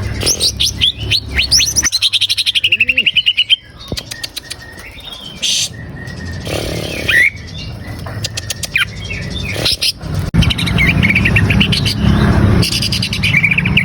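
Cucak ijo (greater green leafbird) singing: a quick run of sharp falling chirps turns into a fast warbling phrase. Scattered whistled calls follow, then more warbling near the end over a low steady hum that swells in the last few seconds.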